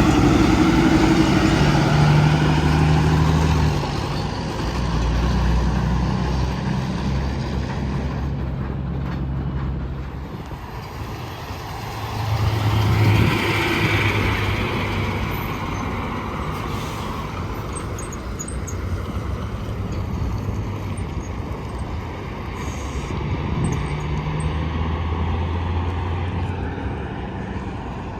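Tractor-trailer trucks passing one after another on an interstate highway: diesel engines running with tyre and road noise. The sound swells as each truck goes by, loudest near the start and again about halfway through.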